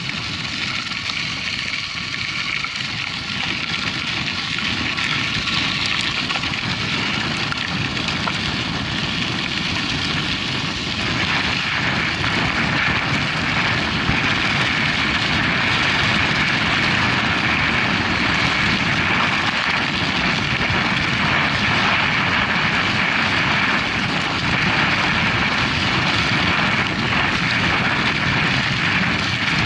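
Steady rushing noise of a mountain bike ride, with wind over the camera microphone and tyres rolling on the trail. It gets louder and brighter about eleven seconds in.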